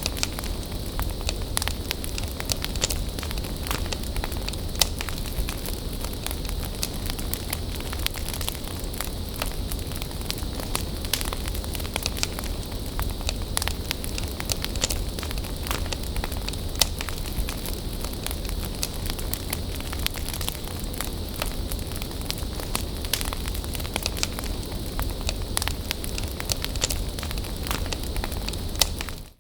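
Wood bonfire burning: a steady hiss and low rumble under frequent sharp crackles and pops.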